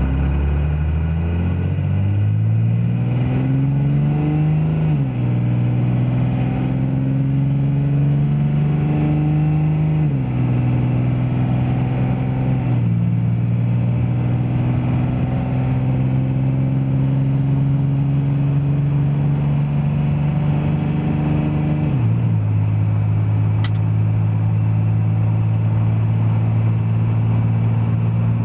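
A 2000 Dodge Ram 2500's 5.9-litre 24-valve Cummins turbo diesel pulls at wide open throttle. Its pitch climbs steadily and drops sharply four times as the automatic transmission shifts up. The drops come at about five, ten, thirteen and twenty-two seconds in, and after the last one the engine holds a steady pitch.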